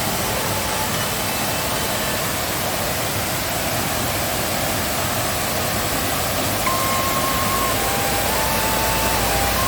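Waterfall in heavy rainy-season flow: a steady, even rush of falling water.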